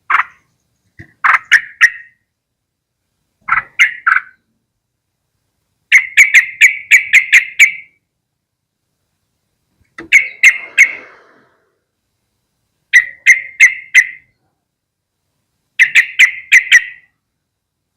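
Yellow-vented bulbul calling: about seven bursts of rapid, sharp chattering notes, roughly four notes a second, with pauses of one to two seconds between bursts.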